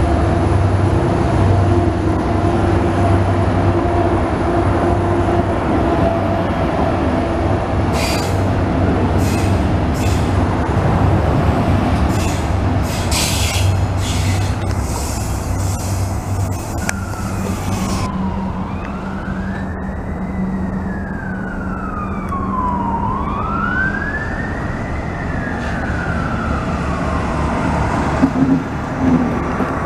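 Israel Railways double-deck train pulling out of the station with a steady low rumble, and a quick run of wheel clicks over rail joints midway. In the second half an emergency-vehicle siren wails, sliding slowly up and down in about three swells over the train noise.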